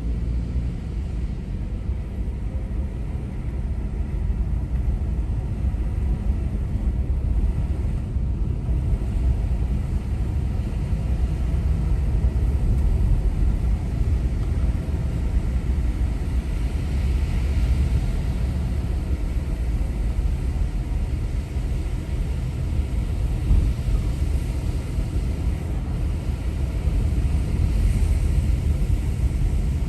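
Toyota HiAce van on the move: a steady low rumble of engine and road noise.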